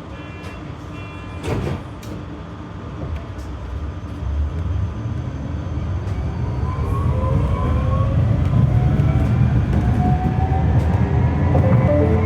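Tram setting off from a stop: a few warning beeps and a knock early on, then the traction motors' whine rises steadily in pitch over a growing rumble as the tram accelerates.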